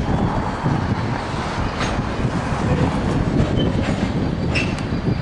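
Freight train cars rolling past with a steady low rumble and wheel clicks over the rail joints, with a brief high wheel squeal about four and a half seconds in.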